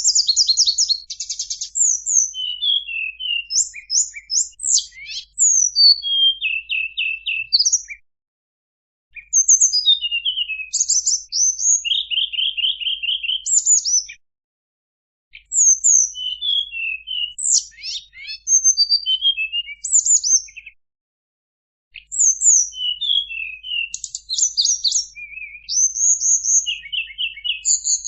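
Tledekan gunung songbird singing: fast, high-pitched phrases of chirps, trills and quick down-slurred whistles, broken by three short pauses.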